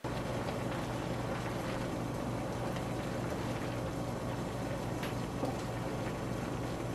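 Sausage and vegetables sizzling in an electric wok as they are stirred with a silicone spatula, over a steady low hum, with a few light clicks of the spatula against the pan.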